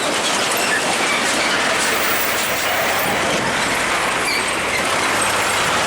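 Steady loud road noise of a heavy truck passing close by: a broad roar of tyres and engine with no single clear note.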